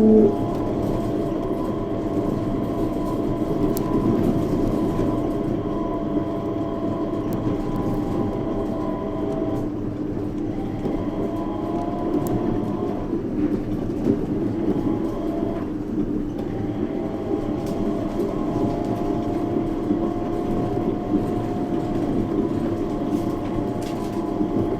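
Yurikamome 7300-series rubber-tyred automated guideway train running at speed, heard from inside the car: a steady rolling noise with several held tones from the drive. The tones drop out briefly a few times about halfway through.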